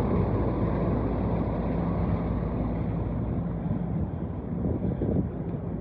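A vehicle engine running steadily with a low rumble, with some wind noise on the microphone.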